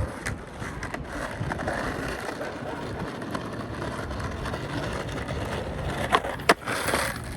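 Skateboard wheels rolling on pavement with wind on the microphone, then two sharp clacks of the board about six seconds in, the second much louder, as in an ollie attempt that doesn't land.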